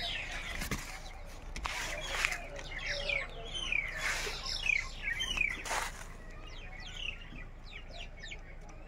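Small birds chirping, a busy run of short falling notes, with a few brief rustles of leaves close by in the first six seconds.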